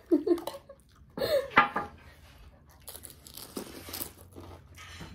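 Two brief vocal bursts in the first two seconds, then close-up chewing and crunching of a golgappa: the crisp fried puri shell cracking and being chewed with its spiced water.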